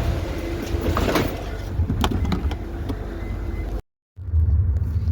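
Steady low rumble of a moving vehicle heard from inside the cabin, with a few sharp clicks and knocks in the first half. The sound cuts out completely for a moment about four seconds in, then the rumble resumes.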